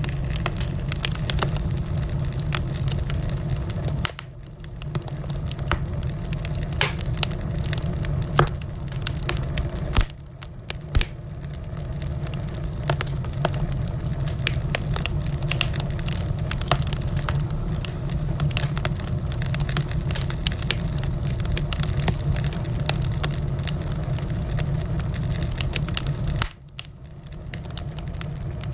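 Wood fire burning in a fireplace: a steady low rumble of flames with constant sharp crackles and pops, the level dipping briefly three times.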